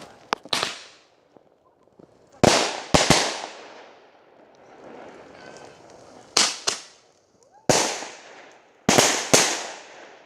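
Fireworks going off: about ten sharp bangs, mostly in close pairs a few tenths of a second apart, each trailing off in an echo.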